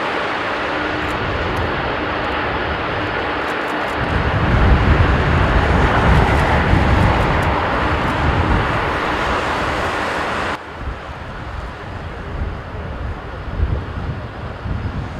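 Jet airliner engines roaring close by, with a deep rumble swelling about four seconds in. A few seconds later the sound drops suddenly to a quieter, uneven rumble.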